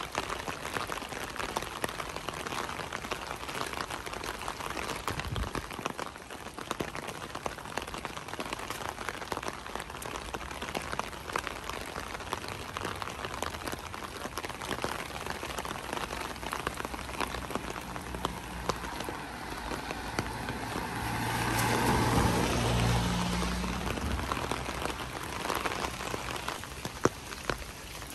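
Steady rain falling, with a dense patter of drop ticks. About three-quarters of the way through, a vehicle passes, its low hum swelling and then fading.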